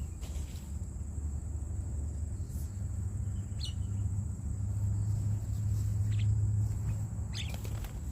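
Outdoor ambience dominated by a steady low rumble, with a thin, steady high-pitched insect whine and a few short bird chirps.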